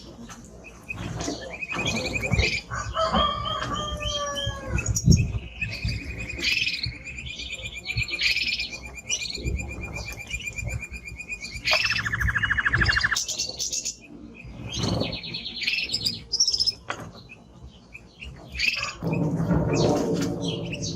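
Male timbrado canary singing a long song of rolling trills, with a sustained rolling note held for several seconds and a fast, lower trill about halfway through. Near the end a lower, noisier sound comes in under the song.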